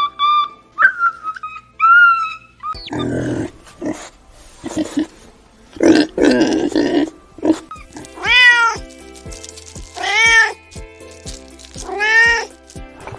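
A domestic cat meowing three times near the end, each meow rising and falling in pitch, after a stretch of rougher, noisier cat sounds. A whistled tune opens it, and a light ticking beat runs under it.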